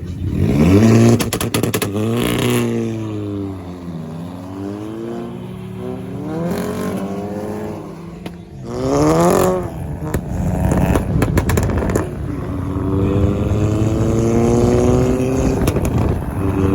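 Car engine revving and accelerating, its pitch climbing and dropping several times, with a quick sharp rev about nine seconds in and a long steady climb near the end.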